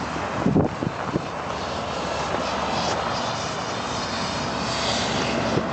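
Steady vehicle and engine noise from the road, with a few low bumps on the microphone between about half a second and a second in.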